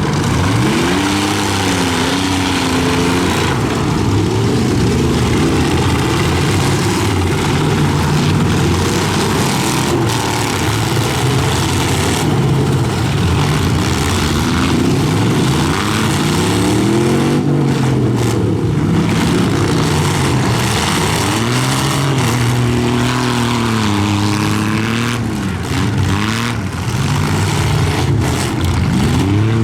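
Several demolition-derby pickup truck engines revving up and down over one another in a continuous din, the pitch rising and falling every few seconds as the trucks accelerate and back off.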